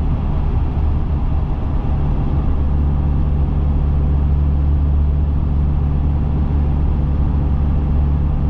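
2010 Dodge Viper SRT10's 8.4-litre V10 cruising at a steady speed, heard from inside the cabin as a steady low engine and exhaust drone.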